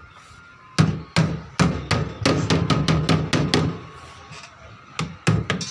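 Hammer striking the sheet-steel strip of a refrigerator's middle panel, bending and seating it into place. A run of sharp blows about three a second, a pause of about a second, then a few more near the end.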